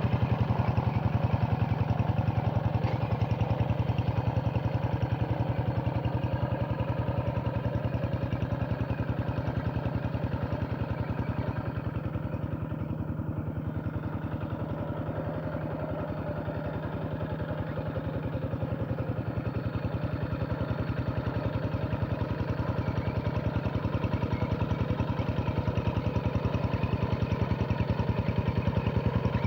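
Paddy-field tractor's diesel engine running steadily under load while puddling a wet rice field, with an even rapid firing beat. It eases off a little midway and then picks up again.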